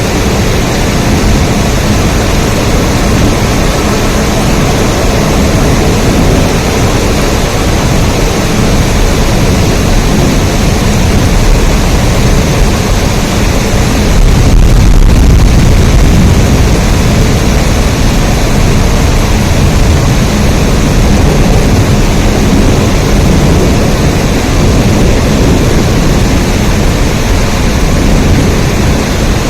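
Steady heavy rain falling, a dense even hiss with a deep rumble underneath, swelling briefly in the low end about halfway through.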